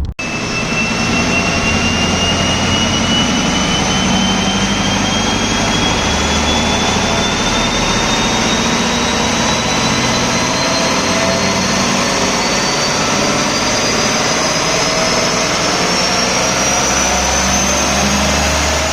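Big-turbo Audi B5 under sustained power, a steady engine and road roar with a turbo whine rising slowly and evenly in pitch throughout.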